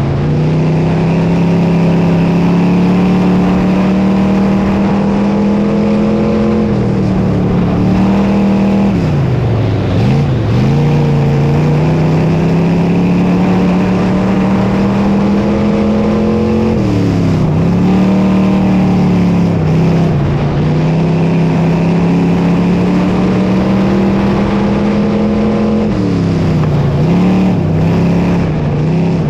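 Dirt modified race car engine running hard at high revs. Its pitch drops sharply and climbs back three times as the throttle is lifted and reapplied for the corners.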